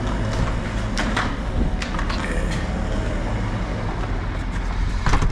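Steady low rumble and hiss with several sharp clicks and knocks, the loudest near the end.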